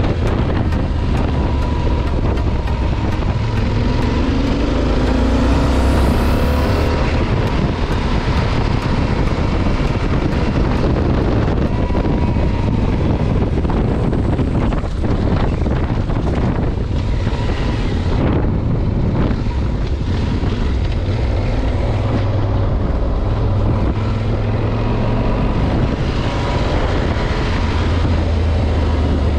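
Motorcycle engine running under way, with steady wind noise on the microphone; the engine note climbs briefly about five seconds in.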